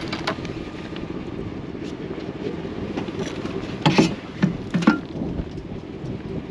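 Steady low rumble of an idling vehicle, with three short knocks of items being handled close by, about four to five seconds in.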